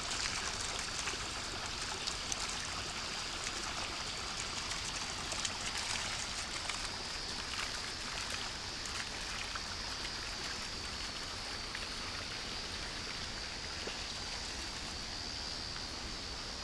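Rushing water of a mountain river, a steady noise with small splashes in the first half, under a steady high-pitched whine.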